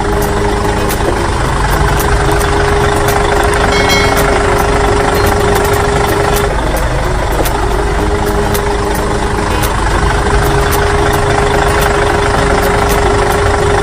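A motor running steadily with a held hum and frequent sharp clicks, the hum breaking off briefly about halfway through before resuming.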